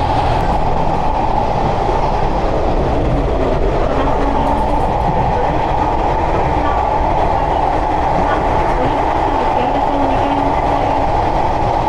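Steady running rumble of a diesel railcar heard from inside the carriage as the train moves along the track.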